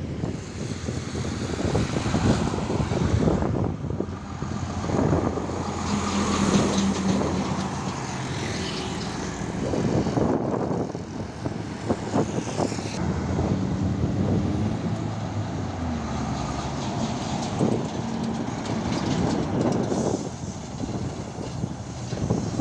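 Heavy trucks passing one after another on a highway, their diesel engines and tyres rising and falling as each goes by.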